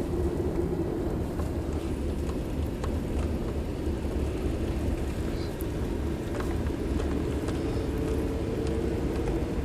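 Car driving at a steady pace, a low, even road and engine rumble heard from inside the cabin.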